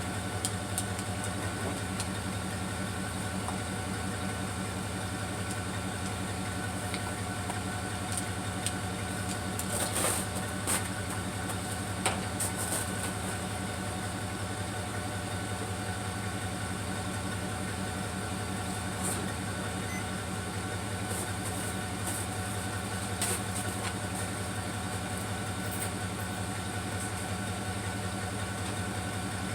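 An engine idling steadily, with a few brief clicks over it.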